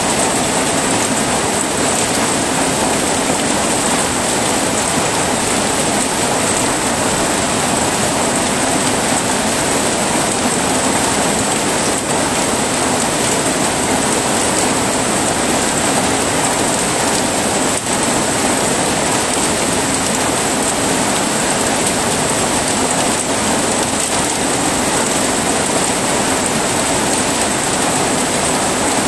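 Heavy rain falling steadily in an even, unbroken hiss of rain on surfaces.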